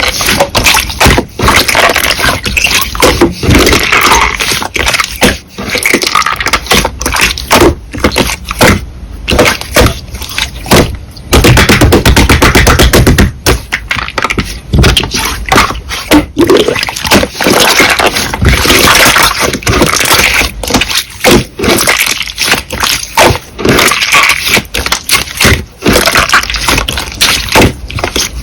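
Slime being squeezed, pressed and stretched close to the microphone: dense, loud crackling and popping of trapped air, with a steadier run of fast crackles about twelve seconds in.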